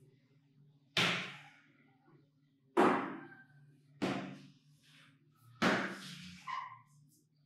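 Four sharp knocks or bangs, a second or two apart, each dying away quickly, then a smaller knock near the end, over a faint low steady hum.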